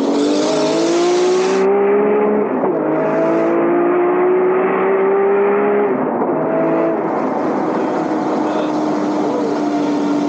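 Nissan Skyline GT-R R34's twin-turbo straight-six, tuned to about 670 hp, heard from inside the stripped-out cabin, pulling hard through the gears: the engine note climbs, drops at upshifts about two and a half and six seconds in, then holds nearly steady near the end. A rushing hiss rides over the first second or two and returns briefly just after each shift.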